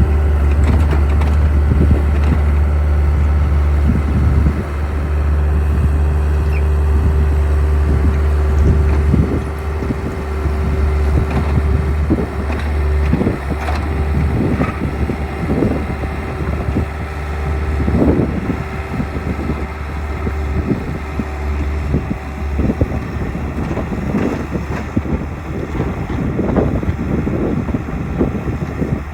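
Skid steer engine running steadily under load, with scattered knocks and scrapes from the machine working the ground. The engine's hum drops slightly about nine seconds in.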